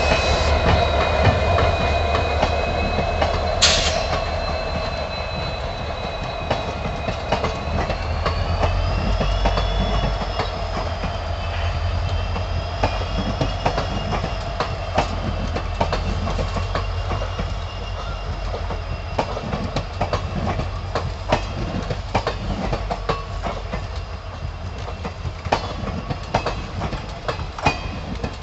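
Indian Railways train running along the track: a steady low rumble, with irregular clicks of the wheels over rail joints. A thin, high squeal wavers slowly in pitch throughout, and there is one sharp louder clack about four seconds in.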